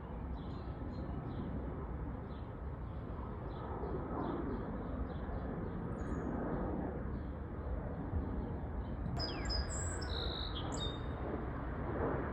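Small birds chirping outdoors: a run of short chirps about two a second, then a louder phrase of high, varied notes lasting about two seconds near the end. A steady low rumble runs underneath.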